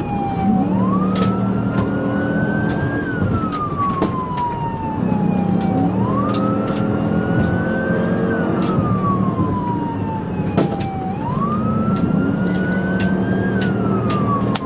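Police car siren on a slow wail, its pitch rising and then sliding back down, once about every five seconds, over the steady engine and road noise of a car driving at speed.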